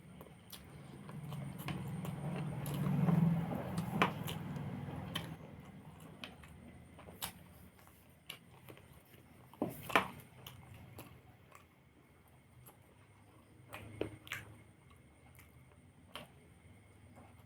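A person eating: chewing and mouth noises, with a few short sharp clicks spread through.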